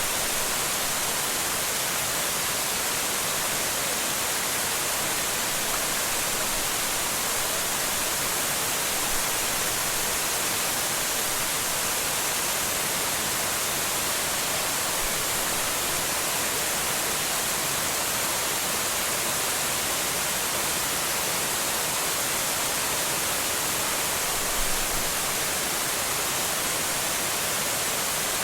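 Waterfall rushing steadily: the constant roar of falling water at Shiraito Falls, even throughout with no breaks.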